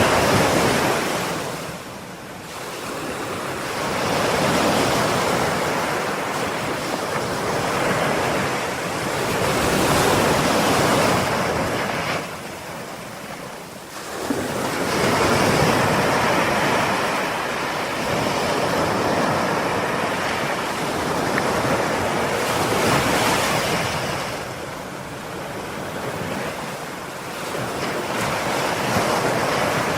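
Ocean waves breaking and washing onto the shore in slow surges, each swell rising and falling over several seconds, with dips between breakers near the start, in the middle, and about three-quarters of the way through.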